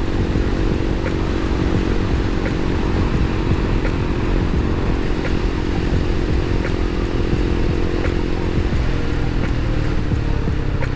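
Motorcycle engine running steadily while riding; about nine seconds in, its pitch drops to a lower steady note.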